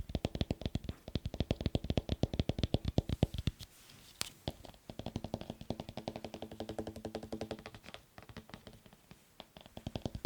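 Fingers tapping fast on a hard object, many taps a second. There is a short pause with a single sharp click about four seconds in. Later the taps carry a ringing tone from the object before they thin out and soften near the end.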